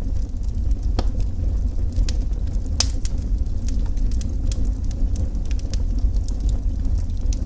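Wood fire burning in a fireplace, crackling with scattered sharp pops over a steady low rumble. The louder pops come about a second in and near the three-second mark.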